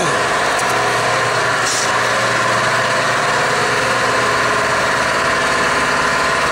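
An engine running steadily at idle, an even, unchanging hum.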